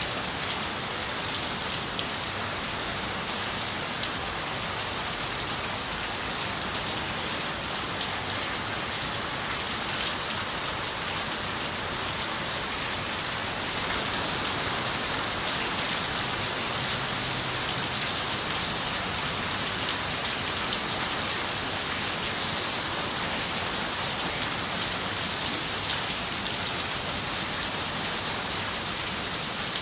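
Steady rain on a window, a dense hiss with scattered drop ticks, getting slightly louder about halfway through.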